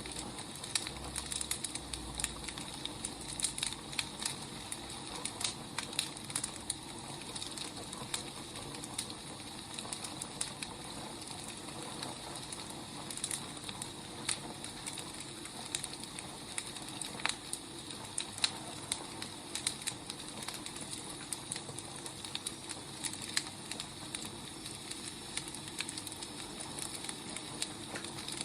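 Wood fire burning, with steady hiss and many irregular sharp crackles and pops.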